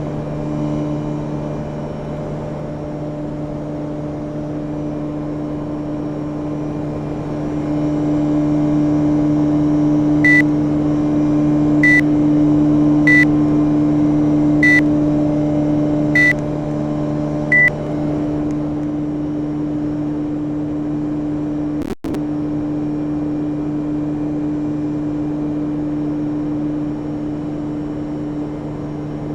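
Panasonic inverter air conditioner running with a steady hum. About a third of the way in, six short high beeps come roughly a second and a half apart.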